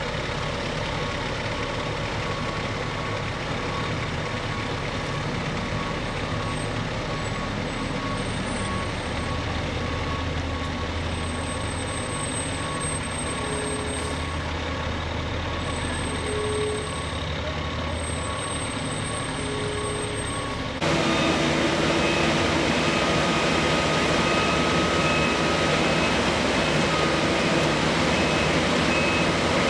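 Fire trucks' engines running steadily, with a repeating electronic beep. About two-thirds of the way through the sound changes abruptly and becomes louder, still with a steady engine and a faster repeating beep.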